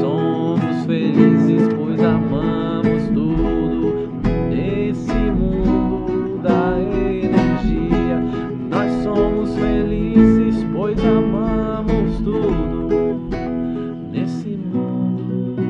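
Acoustic guitar strummed rhythmically in an instrumental passage, with no singing.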